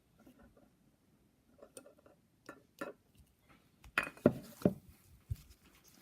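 Metal engine parts clinking and knocking as they are handled: a piston, its wrist pin and a connecting rod being fitted together. A few light taps and clicks, then a cluster of sharper knocks about four seconds in.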